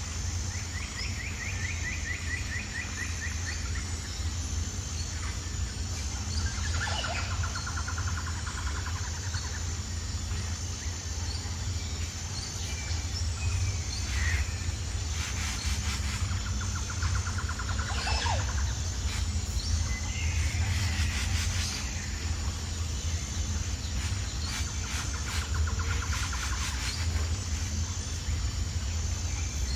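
Birds singing: several short, rapid trills and scattered chirps, with a few runs of fast clicking, over a steady low rumble.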